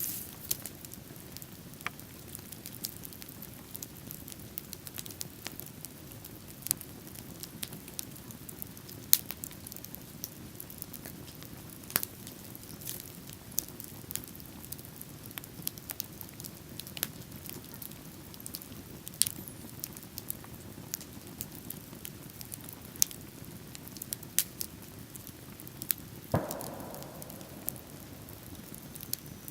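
Wood bonfire crackling: irregular sharp pops and snaps over a steady low rush, with one louder, longer burst near the end.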